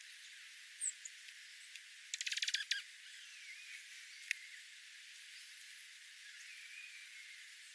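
Wild birds calling over a steady hiss. A short high chirp comes just under a second in, then a quick rattling trill of rapid notes for under a second, a single sharp click, and faint warbling calls.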